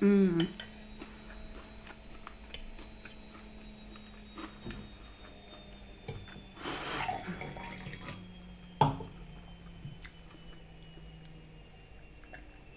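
Close-up eating sounds from a mukbang: quiet chewing with small mouth clicks, a short falling pitched sound at the very start, a crunchy bite of crispy takeaway food about seven seconds in, and a sharp click about nine seconds in.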